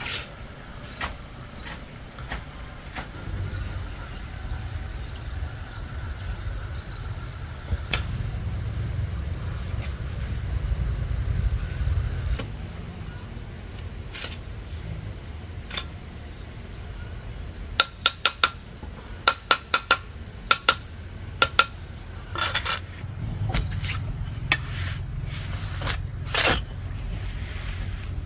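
Scattered hammer blows, with a quick run of strikes near the middle of the second half, over a steady high insect drone that grows much louder for about four seconds and then drops back abruptly.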